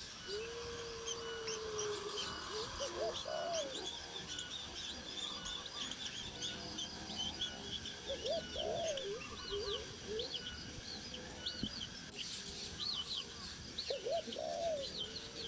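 Birds calling: many short high chirps throughout, and a low, repeated call heard three times about six seconds apart, each a held note followed by a few rising-and-falling notes.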